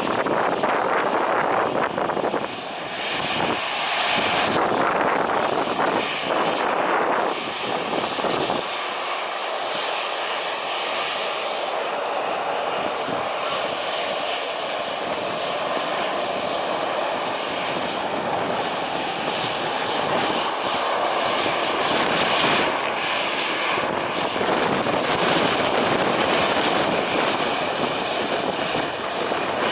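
Airplane engines running, a loud, steady rushing noise.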